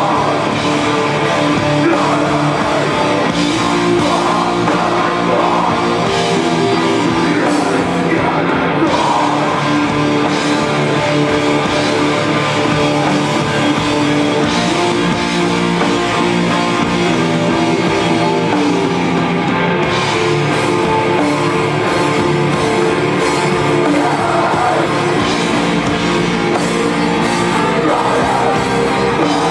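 A live rock band playing loudly, with electric guitar and held, sustained chords.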